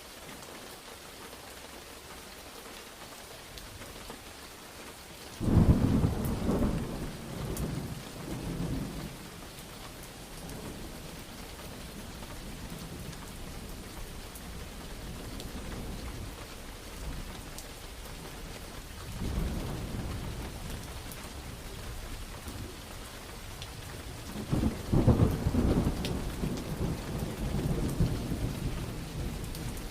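Steady rain with thunder: a sudden loud crack and rumble about five seconds in that rolls away over several seconds, a softer roll in the middle, and a second strong peal that rumbles on near the end.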